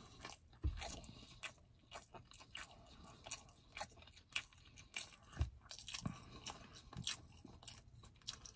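A person chewing food close to the microphone: irregular wet clicks, crunches and smacks of eating, with a couple of soft low thumps.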